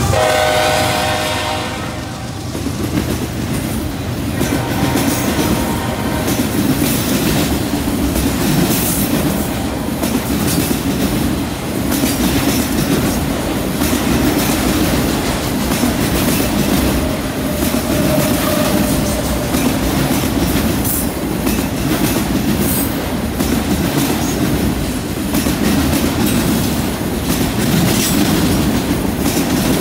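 A long freight train rolling past: the trailing diesel locomotive's engine drops in pitch as it goes by in the first two seconds, then a string of autorack cars rumbling along with their wheels clicking steadily over the rail joints and a brief faint wheel squeal.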